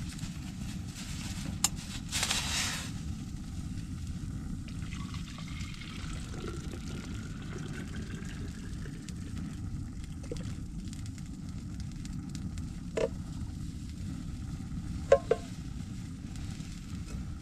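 Food sizzling over an open campfire, a steady frying hiss with a short louder flare of hissing about two seconds in. There are a few sharp crackles near the end.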